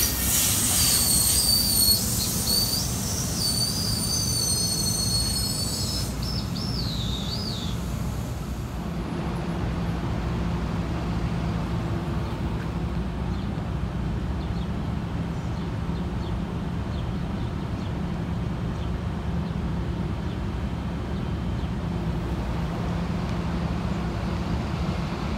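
NJ Transit multilevel coach train braking into the station: the wheels and brakes give high, wavering squeals for the first several seconds over a low rumble. The squeals fade about eight seconds in, leaving a steady low hum from the standing train.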